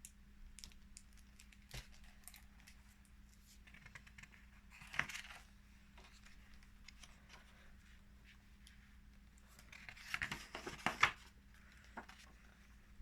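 Paper pages of a picture book being handled and turned: a few soft clicks and two short rustles, one about five seconds in and a longer one near the end, over a faint steady hum.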